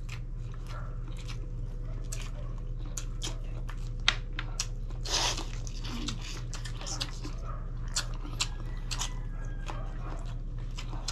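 Close-miked eating sounds of people chewing and biting into grilled chicken eaten by hand: many short wet clicks and smacks, with one louder noisy moment about five seconds in. A steady low hum runs underneath.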